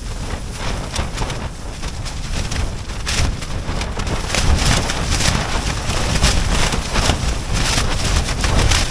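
Gale-force wind battering a Bonfus Middus 2p Dyneema (DCF) ultralight tent, heard from inside: the fabric flaps and cracks irregularly over a continuous low rumble of wind.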